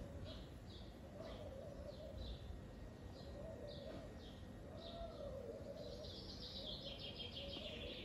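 Birds chirping: short high chirps repeating about twice a second, then a faster, denser twittering trill from about six seconds in.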